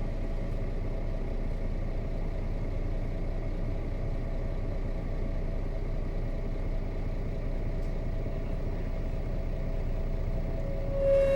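Nissan Diesel KC-RM211GSN bus's FE6 six-cylinder diesel engine running steadily under way, heard from inside the cabin. Near the end a loud steady tone with overtones starts.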